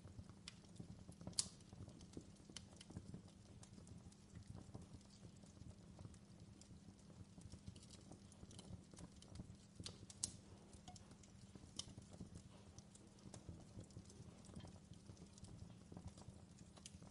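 Faint fireplace crackling: irregular small pops and snaps over a low steady rumble, with two sharper pops about a second and a half in and about ten seconds in.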